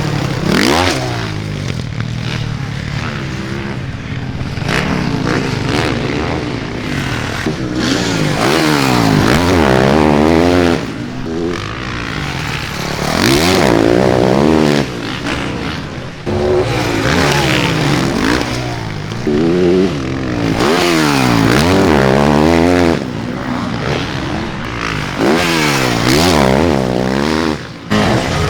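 Several motocross bikes racing, their engines revving up and down as they accelerate and shift around the track, often overlapping.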